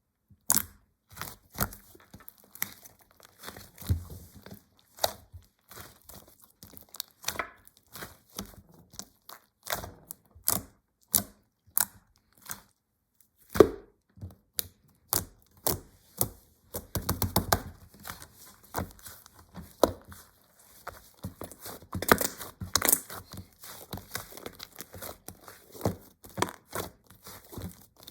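Slime being squished and poked, giving irregular sharp pops and clicks, with denser stretches of crackling about 17 and 22 seconds in.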